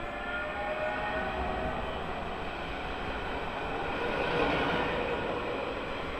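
DSB passenger train running past along the platform track: a steady rumble of wheels on rails with a faint falling tone near the start. It grows a little louder about four seconds in as the rear cars go by.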